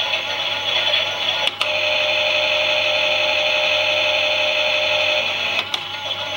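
Small electric motor of a Klein Miele toy washing machine whirring as the drum turns. There is a sharp click about a second and a half in and another near the end, and between them the motor runs at a steady pitch.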